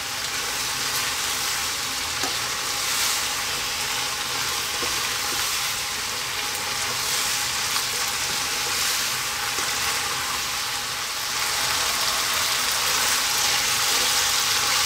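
Stir-fried fish and vegetables sizzling in sauce in a wok, stirred with a spatula, with a few light scrapes against the pan. The sizzle grows louder over the last few seconds.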